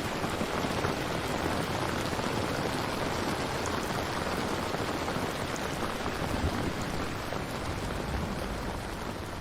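Steady rain falling, a dense even hiss with a few faint drop ticks, beginning to fade out near the end.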